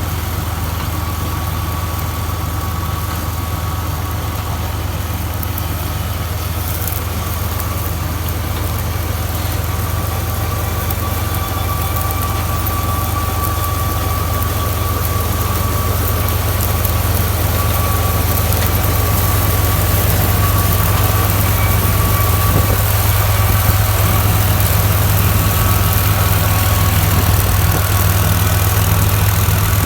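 Tractor diesel engine running steadily with a deep, even hum, growing slowly louder over the stretch.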